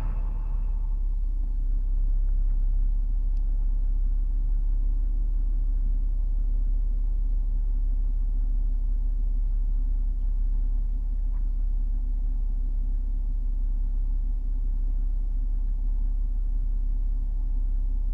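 2007 BMW X3 engine idling with a steady low rumble, heard with the heater blower dialed down to near zero. The blower's whir fades out within the first second.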